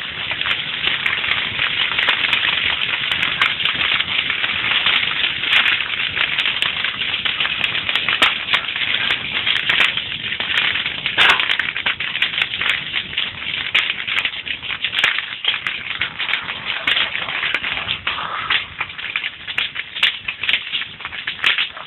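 Campfire burning, with a dense, continuous crackle of pops and snaps over a steady hiss.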